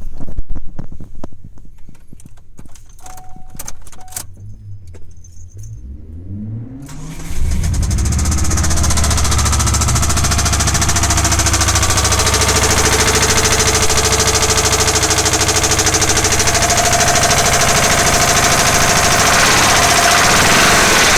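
A few clicks, then the Subaru Legacy BH5's EJ20 flat-four is cranked and catches about seven seconds in. It runs with a loud, rapid, steady knocking, which the owner takes for a spun connecting-rod bearing.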